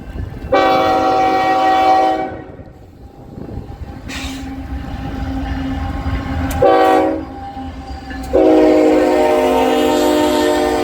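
Freight train locomotive's horn sounding a long blast, a short blast, then another long blast, over the steady low rumble of the passing diesel locomotives.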